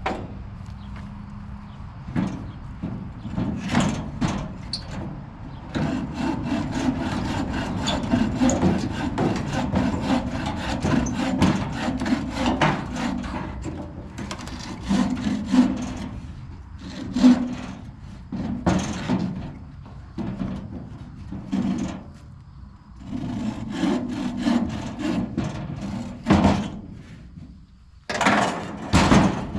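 Wood being sawn by hand, in runs of quick back-and-forth strokes broken by short pauses.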